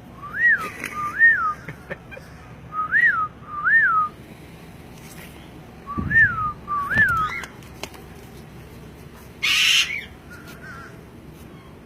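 Caged parrot whistling a two-note call three times over, each note a clear whistle that rises and falls. A short harsh burst of noise comes near the end.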